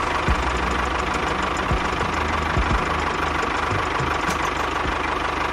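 A small motor running steadily, with a few short low knocks.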